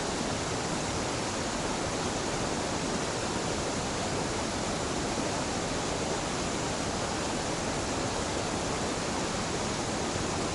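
Waterfall of a mountain stream splashing and rushing steadily, an even, unchanging wash of falling water.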